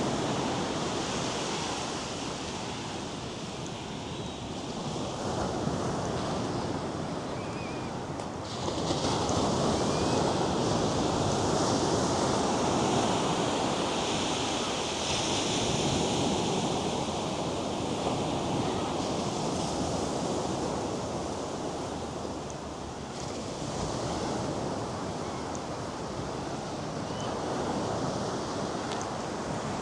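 North Sea surf: waves breaking and washing up a sandy shore, the rush rising and falling in slow swells, with one louder wave crashing about eight seconds in.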